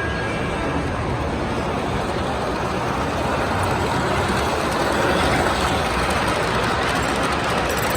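Train running: a steady rushing rumble that grows a little louder about halfway through.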